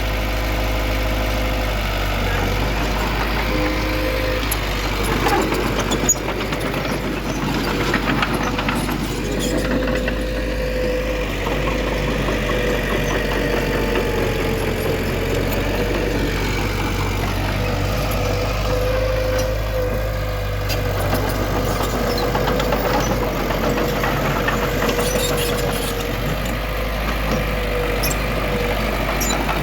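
Heavy diesel earthmoving machinery running steadily with a constant whine, with a few sharp knocks about five to eight seconds in.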